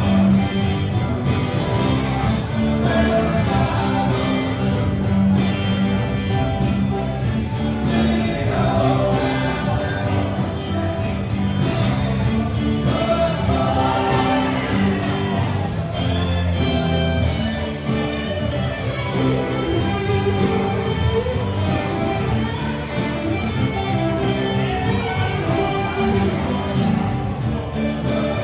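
Band playing live with a singer, over a steady drum beat.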